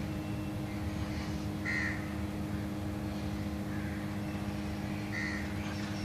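A steady low hum, with a bird giving two short, harsh calls: one about two seconds in and one near the end.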